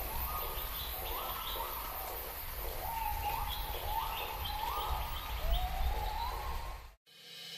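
Birds calling in a run of short repeated calls, each rising in pitch and then levelling off, over a steady low outdoor rumble. It all cuts off abruptly near the end.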